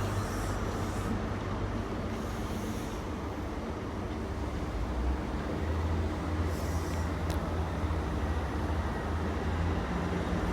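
A Great Western Railway short-formed HST 'castle set' drawing into the platform, its coaches rolling past with a steady rumble. The low diesel hum of a Class 43 power car runs underneath, with a few brief hisses or squeaks.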